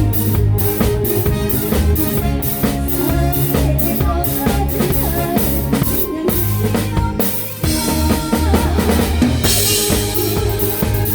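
A live band playing a song, led by a drum kit with snare and bass drum over sustained bass and other instruments. About seven and a half seconds in the playing drops out briefly, then comes back with a cymbal wash.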